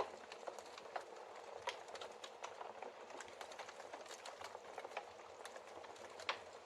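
Wood fire crackling in a fireplace, with irregular small pops and snaps and a couple of louder ones, over a steady hiss of rain.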